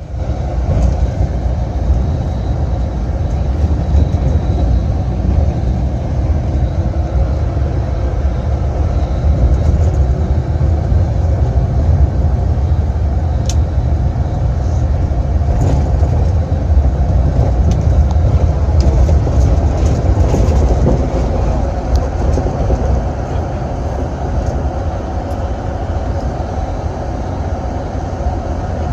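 Steady low rumble of a bus running at highway speed, engine and road noise together, with a few faint clicks.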